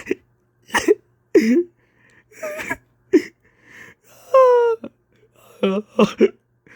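A man's wordless crying, with short sobbing gasps and a long falling wail about four seconds in.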